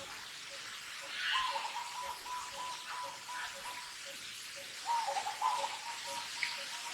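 Outdoor bird calls: two runs of short notes on nearly one pitch, one about a second in and one near five seconds in, over a softer single note that repeats steadily about three times a second.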